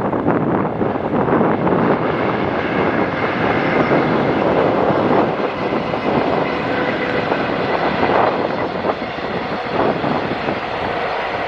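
Freight train passing close by: a steady rumble of wagon wheels on the rails, with faint clatter.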